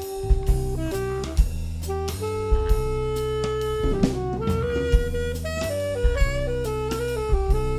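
Jazz band music: a drum kit keeps time under a lead melody line that holds long notes, then moves in short steps from about halfway through.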